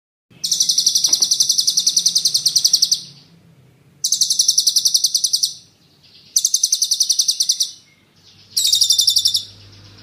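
Songbird giving a rapid, high rolling trill in four bursts, each lasting about one and a half to two and a half seconds, with short pauses between them.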